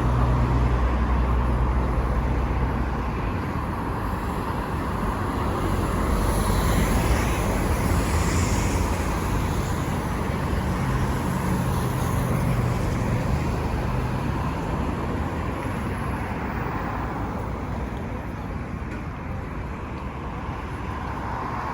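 City street traffic: cars driving past with a steady rush of tyres and engine hum, one vehicle swelling louder about seven seconds in.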